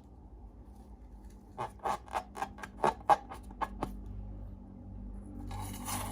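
Slime being squeezed and worked by hand, giving a quick run of about ten sharp crackling pops over two seconds, followed near the end by a scratchy rustle.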